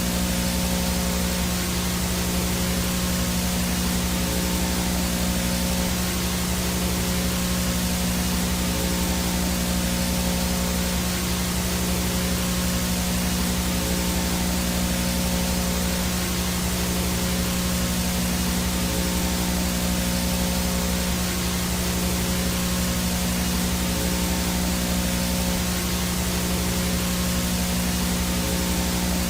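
Steady VHS static noise from a blank, no-signal video: an even hiss with a low steady hum underneath, unchanging throughout.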